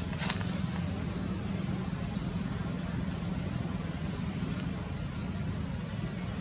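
Steady low outdoor rumble like wind on the microphone, with about six short, high chirps from a small bird spread through the middle, some rising and some falling in pitch.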